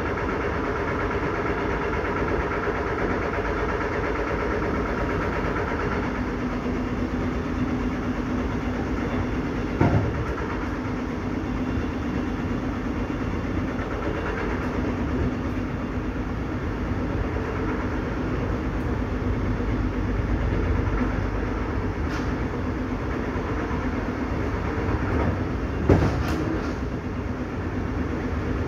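A train running at speed, heard from on board: a steady rumble with a faint hum. Two sharp knocks stand out, one about ten seconds in and another a few seconds before the end.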